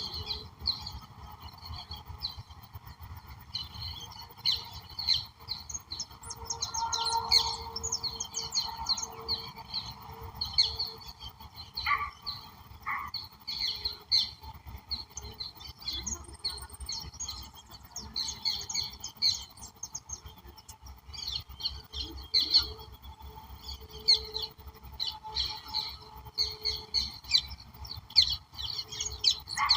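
Several birds chirping and singing together, a dense mix of short high calls, over a faint steady background hum.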